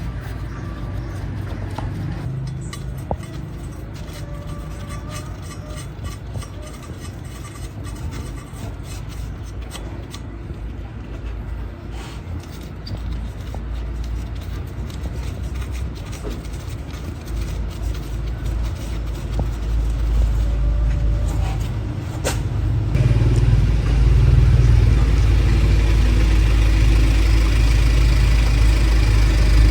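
Car engine running with a steady low rumble, growing louder about two-thirds of the way through.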